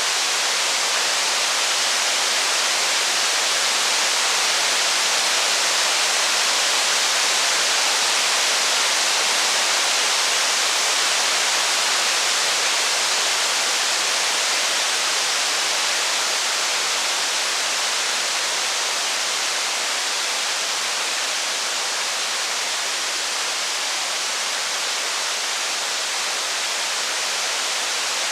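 Steady rain, an even hiss with no separate drops, crackles or thunder standing out.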